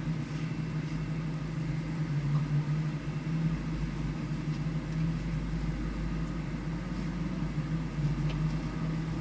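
A vehicle engine idling steadily: an even low hum with no revving.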